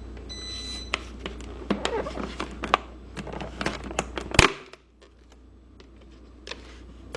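Close handling noises: irregular clicks, taps and crinkling, with one louder knock about four and a half seconds in. A low hum cuts out at that knock.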